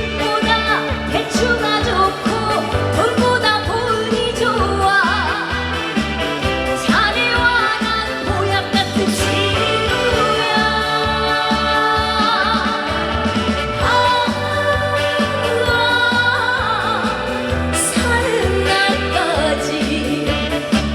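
Trot song performed live: a woman singing with wide vibrato over a played backing track with a steady pulsing bass beat.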